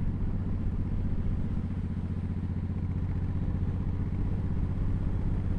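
Motorcycle engine running steadily at a constant pitch.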